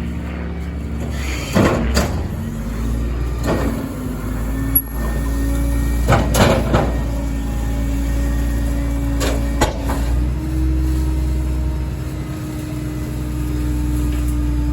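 Kenworth rear-loader garbage truck with a Heil packer body: the diesel engine runs steadily under a hydraulic whine while the packer blade compacts bulk trash. Loud cracks and crunches come about two seconds in, again at three and a half seconds, in a cluster around six seconds and once more near ten seconds, and the hydraulic tone steps up after the last one.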